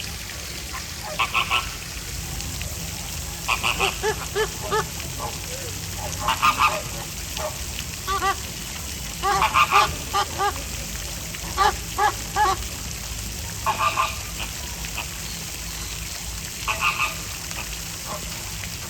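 Flock of American flamingos honking: short calls in quick clusters of three or four, repeating every couple of seconds.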